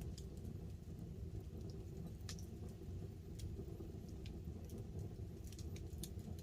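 Wood campfire crackling, with irregular sharp pops and snaps over a steady low rumble, and light rain pattering on a tarp overhead.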